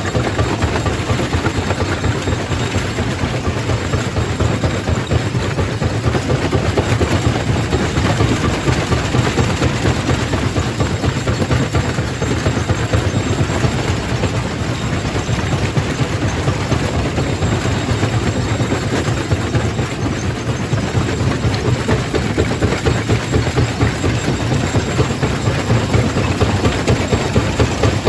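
Quarry primary rock crusher running steadily: a constant low machine hum under a dense, continuous rattle of rock being broken.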